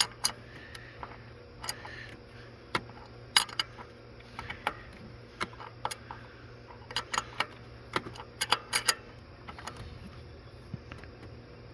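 Sharp metallic clicks and taps of a wrench tightening the oil filter housing cap on a 2013 Camaro V6 until snug, irregular, with a quick run of clicks about two-thirds of the way through.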